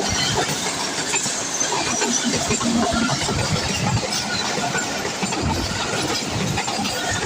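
A train running along the track: a steady rumble and rattle of the cars, with many irregular knocks from the wheels and couplings.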